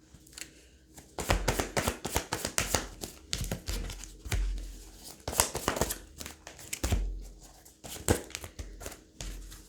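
A tarot deck being shuffled and handled by hand: a quick, irregular run of card slaps and rustles, starting about a second in.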